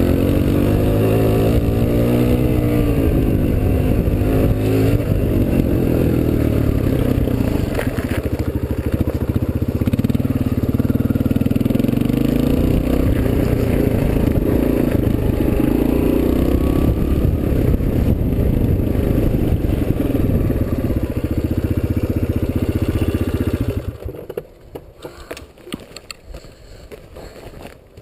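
Suzuki DR-Z125L dirt bike's small four-stroke single-cylinder engine running on the move, its pitch rising and falling with the throttle. It stops suddenly near the end, leaving faint knocks and clatter.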